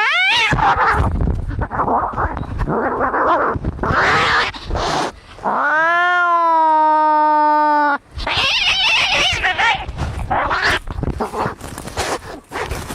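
Angry cats fighting: harsh, noisy spats, with a long drawn-out yowl about halfway through that cuts off suddenly.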